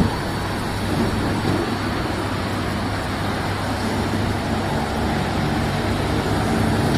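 Steady rush of running water as a muddy toy van is washed clean.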